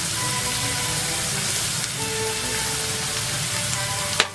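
Hijiki seaweed sizzling in oil in a frying pan, a steady hiss, with liquid poured in at the start. Soft background music with held notes plays over it, and there is a sharp click near the end.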